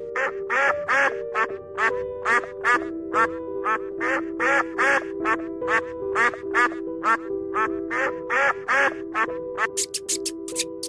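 A run of short animal calls, about two or three a second, each rising and falling in pitch, over background music with long held notes.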